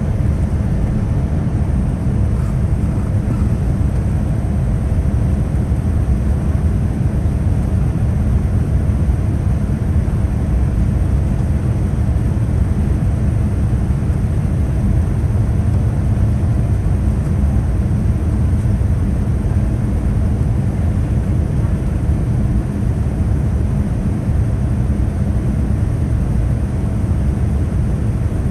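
Steady in-flight cabin noise of a Boeing 787-9 heard from a window seat: a loud, even rumble of airflow and engines with a faint steady hum.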